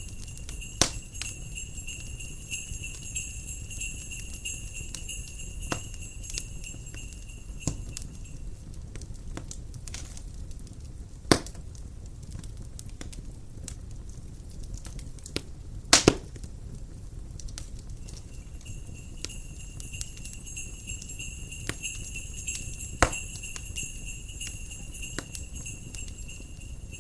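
Jingle bells shaking steadily over a crackling wood fire, with a low wind-like rumble underneath. The bells stop about a third of the way in and come back about two-thirds in, while the fire keeps popping; the loudest pops come about 11 and 16 seconds in.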